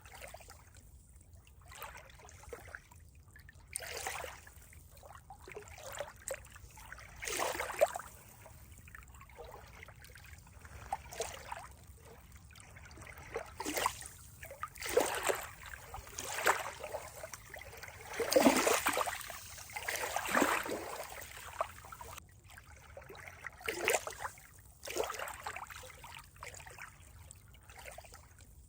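Water trickling and splashing in uneven bursts, loudest about two-thirds of the way through.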